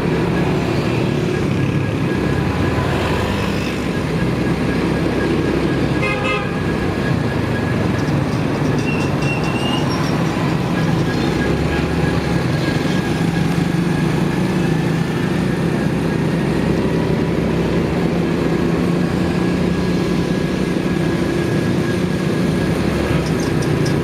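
Motorcycle engine running steadily amid street traffic noise, with a short vehicle horn toot about six seconds in and a brief high beep near ten seconds.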